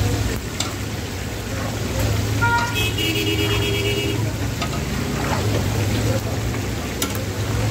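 Chapli kababs and eggs sizzling in a wide pan of hot frying fat, over a steady background of street traffic. A vehicle horn sounds for about a second and a half, starting about two and a half seconds in.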